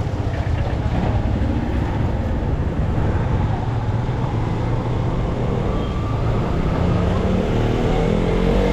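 Motorcycle engine running steadily while riding, with road and traffic noise.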